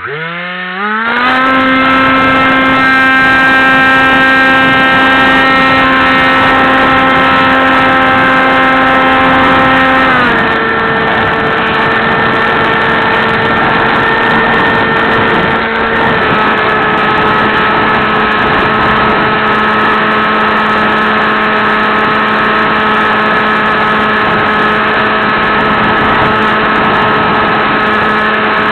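AXN Clouds Fly RC plane's electric motor and propeller spinning up to speed in about a second, then running with a steady buzzing hum. Its pitch drops slightly twice, about ten and sixteen seconds in, as the throttle is eased back.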